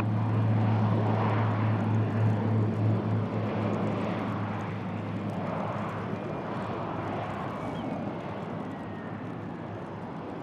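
Aircraft engine noise slowly fading away, with a steady low hum that dies out about three to four seconds in.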